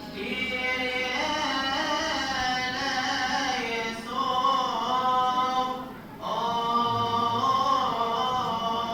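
Male voice chanting a long, melismatic Coptic liturgical hymn melody, each syllable drawn out over gliding, ornamented notes, with a short break for breath about six seconds in.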